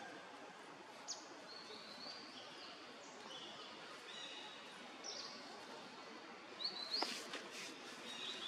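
Birds calling in the forest: short high chirps and whistles, a few sliding down in pitch, over a steady background hiss, with a few sharp clicks about seven seconds in.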